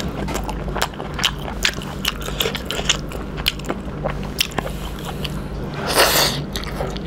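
Close-miked mukbang eating of fried chicken intestines: wet, irregular chewing and biting clicks, with one louder, longer mouthful sound about six seconds in, over a low steady hum.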